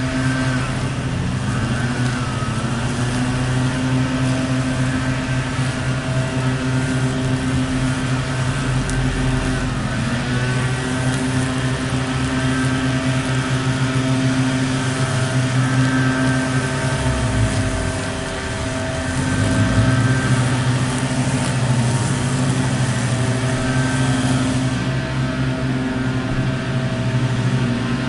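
A motor running with a steady, pitched drone. The pitch sags and comes back up a little past the halfway mark.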